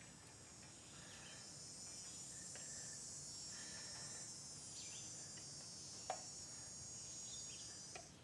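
Faint, steady, high-pitched insect chorus with short chirps lower down; the chorus cuts off just before the end. A single sharp click about six seconds in.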